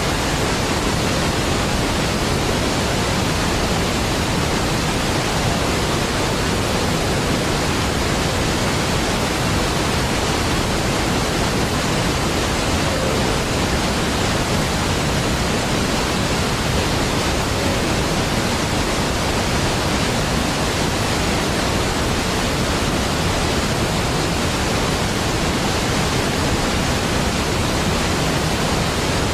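Large waterfall: a steady, even rush of falling water with no changes or breaks.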